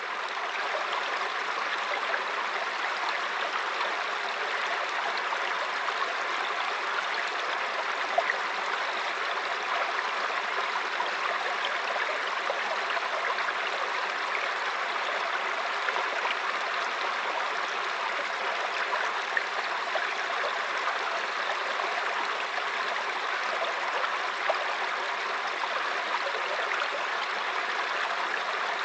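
Waterfall: steady rushing water with small splashes scattered through it.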